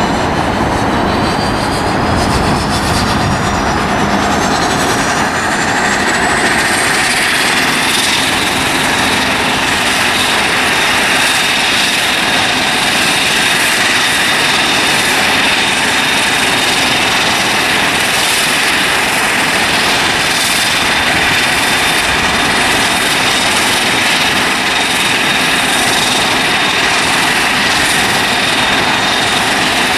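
An aircraft's turbine engines running loud, their whine rising in pitch over the first eight seconds or so, then holding at a steady high whine.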